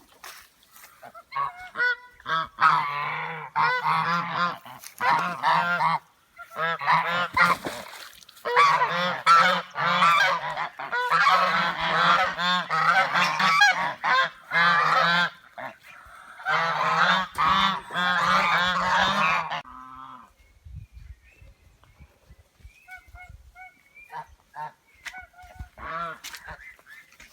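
Domestic African geese honking in loud, repeated bouts, several calls overlapping, for most of the first twenty seconds; after that only a few faint, scattered calls.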